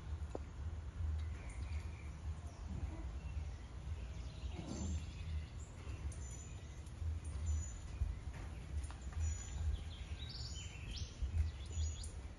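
Steady low background rumble, with short high bird chirps repeating from about five seconds in.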